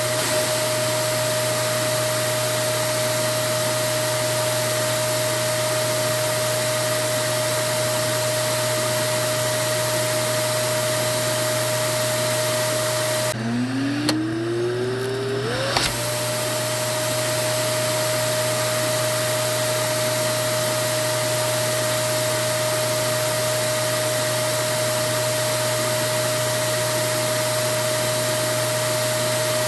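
Vacuum cleaner motor running steadily with a constant whine over a hiss. About halfway through, the whine drops low and climbs back up to its usual pitch over a couple of seconds, ending with a click, before the steady running resumes.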